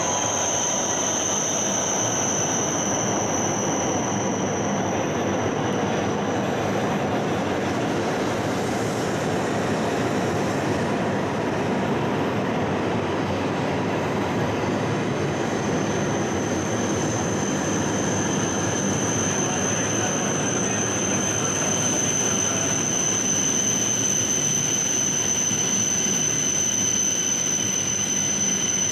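Shinkansen bullet trains running slowly through a station: a steady rumble of wheels on rail, with a high, steady whine that fades about a fifth of the way in and comes back about halfway through.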